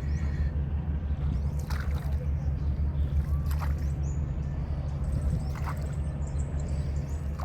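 A boat's engine running steadily with a low drone, with water sloshing. Brief higher sounds recur about every two seconds.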